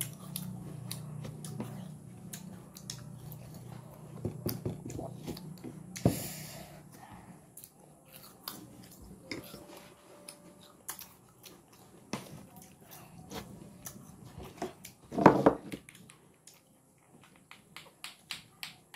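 Crisp bites and chewing of fresh wax apples (tambis), with scattered sharp crunches and mouth clicks. Near the end a clacker toy, two hard balls on strings, starts knocking together in an even rhythm.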